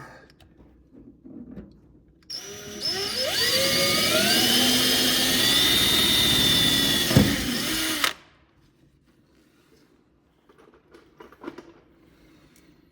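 Power drill spinning up with a rising whine, then running steadily for about six seconds before stopping abruptly, while drilling mounting holes for the front spoiler.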